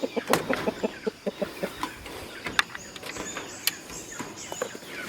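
Chickens clucking in a run of short, repeated clucks, with a few sharp clicks among them.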